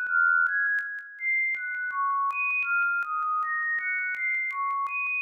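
A simple synthesizer melody of high, pure single notes, stepping to a new note every quarter to half second, each note starting with a faint click.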